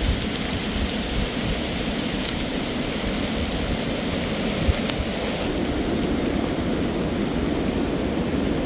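Strong wind blowing steadily into a shelter, gusting and buffeting the microphone, with a few faint ticks.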